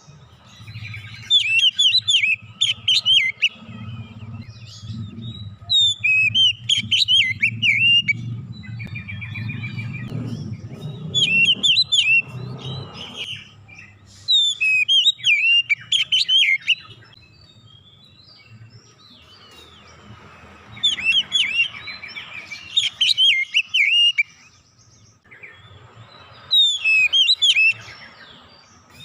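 Oriental magpie-robin (kacer) singing: loud bursts of rapid, varied whistles and chattering notes, repeated every few seconds with short pauses between phrases. A low hum underlies the first half.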